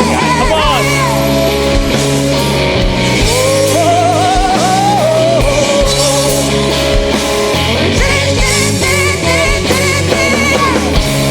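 Live blues-rock song with a woman singing over the band: sustained bass notes under a powerful vocal line with wide vibrato, played back as a concert recording.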